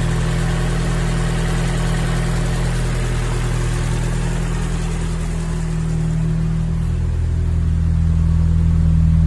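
2012 Scion tC's four-cylinder engine idling steadily, growing a little louder over the last couple of seconds.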